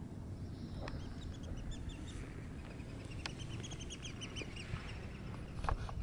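A small bird calling in a rapid series of short, high chirps over a low rumble of wind, with a few sharp clicks.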